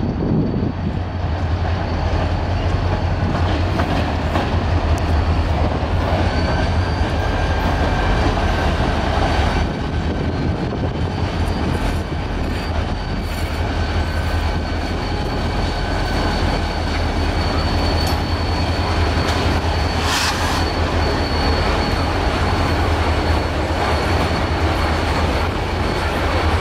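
Two Norfolk Southern EMD SD40-2 diesel locomotives passing with a steady low engine rumble, followed by tank cars. Faint high wheel squeal and clicking of wheels over the rails come in from about six seconds in.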